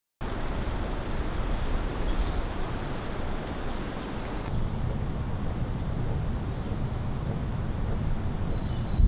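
Strong mountain wind blowing, a steady rushing noise with a low rumble on the microphone, with faint high chirps above it.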